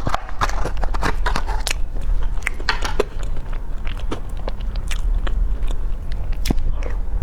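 Close-miked eating: irregular sharp bites and chewing clicks, with a steady low hum underneath.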